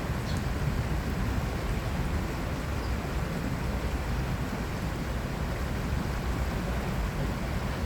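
Steady on-site ambience by an urban stream: a continuous rushing noise, heaviest in the low end.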